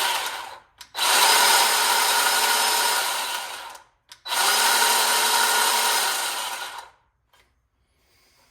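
Craftsman V20 10-inch cordless electric chainsaw running with no load in short trigger pulls: a run ending just under a second in, then two runs of about three seconds each, each dying away as the trigger is released.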